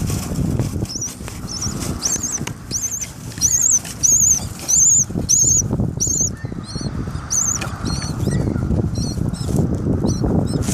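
Birds nesting inside a house vent pipe: a rapid series of high, thin chirps, about two to three a second, over scratching and fluttering in the pipe.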